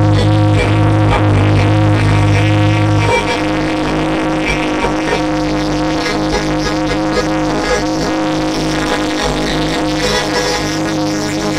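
Music played loud through a large sound-system rig during a sound check, with a heavy steady bass that drops away about three seconds in while the rest of the music carries on.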